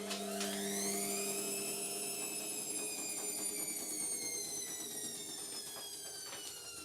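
Indesit washing machine's drum motor whining as it drives the drum: the whine climbs quickly in the first second, then sinks slowly as the motor eases off, with a few faint clicks.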